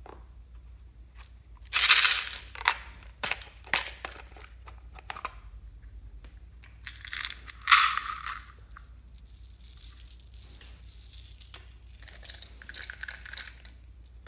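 Hands squishing and pulling slime, making crackly, crunchy noises. There is a loud burst about two seconds in and another about halfway, with scattered pops between them and softer crackling near the end.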